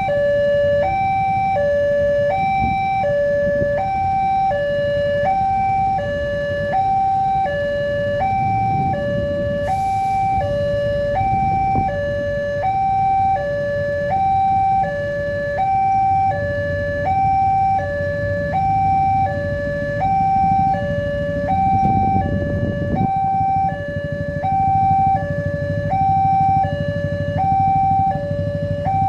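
Railway level-crossing warning alarm: an electronic two-tone signal switching between a high and a low note about twice a second, the sign that a train is approaching and the crossing is closed. A low rumble runs underneath, swelling twice.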